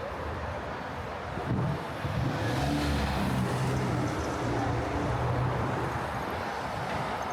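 A motor vehicle's engine passes close in street traffic. Its low engine note swells about a second and a half in, holds, and fades near the end, over the steady hum of city traffic.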